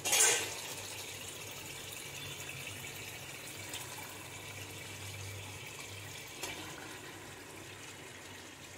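Raw chicken pieces going into hot oil and fried masala in a wok: a loud sizzle as the first pieces hit, settling into a steady sizzle, with two small knocks later on.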